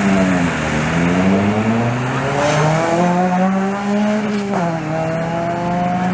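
Rally car engine accelerating hard from a stage start, the revs climbing steadily through a gear and dropping sharply at an upshift about four and a half seconds in, then climbing again.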